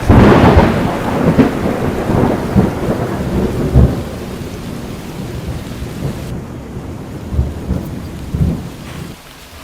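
A loud thunderclap that rumbles on and slowly fades over several seconds, over steady rain; the rain grows duller and quieter about six seconds in.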